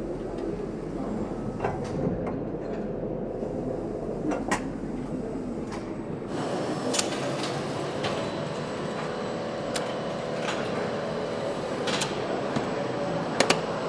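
Steady machinery hum with scattered sharp metallic clicks and knocks, like parts and tools being handled during engine assembly; a fuller, louder running noise joins about six seconds in.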